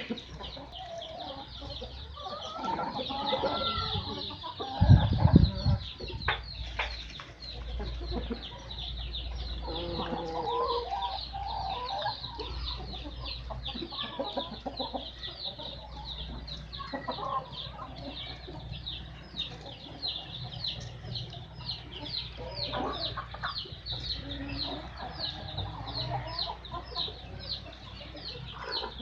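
A crowd of Kuroiler chicks peeping continuously in rapid, high-pitched cheeps, with adult hens clucking lower down. A loud low thump comes about five seconds in.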